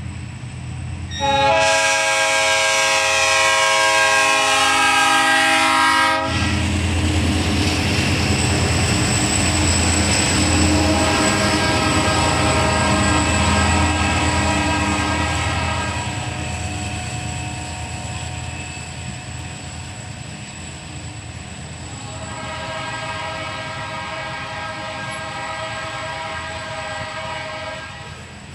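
Diesel locomotive's air horn blowing one loud blast of about five seconds, then two weaker blasts, over the train's steady engine rumble and the clack of wheels on the rails.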